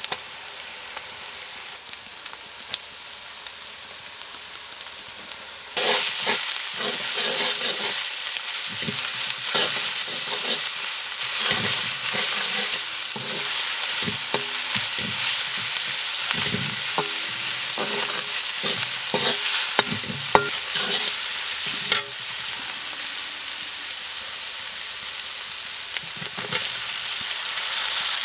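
Onions and ground ginger, garlic and chilli paste frying in hot oil in a metal karahi, sizzling steadily. About six seconds in the sizzle suddenly gets louder, and a wooden spoon stirs and scrapes against the pan with many small knocks. After a sharp knock about three-quarters of the way through, the sizzle carries on a little quieter.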